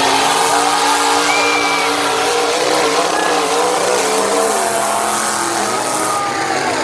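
Several demolition derby car engines running at once, loud and steady, their pitches rising and falling as the drivers rev.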